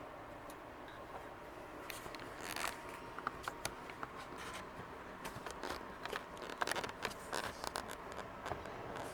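G scale model train running on the track: faint, irregular clicking and scraping of wheels on the rails, starting about two seconds in and coming thicker toward the end.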